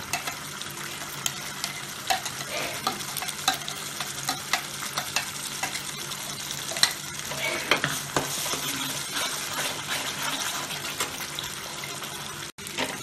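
Ground masala paste sizzling as it drops into hot oil in a kadhai, with a steady frying hiss. A metal spoon scrapes and clinks against the steel grinder jar and the pan many times as the paste is scraped out.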